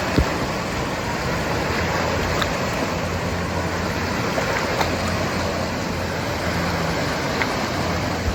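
Steady rushing water of a wave pool, muffled through a waterproof camera cover, with a few faint knocks.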